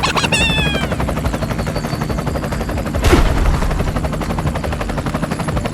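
Rapid, steady mechanical rattling from a small motorised machine, with a short falling squeak near the start and a louder burst of noise about three seconds in.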